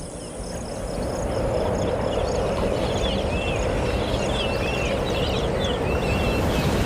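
Steady outdoor rushing noise, with many small birds chirping repeatedly from about two and a half seconds in.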